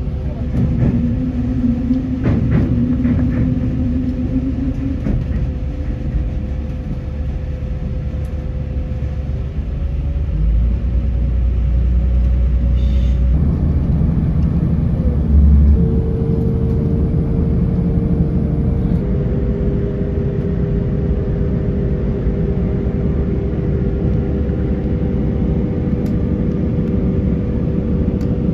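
A Class 4000 diesel multiple unit heard from inside while it runs along: a steady low rumble of wheels on rail with the underfloor diesel engine's drone. The engine note shifts in pitch a few times past the middle.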